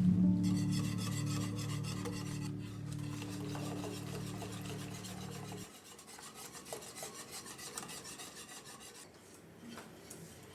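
Rhythmic rasping and rubbing over low sustained music, which cuts off a little past halfway; after that the scraping goes on more quietly and unevenly.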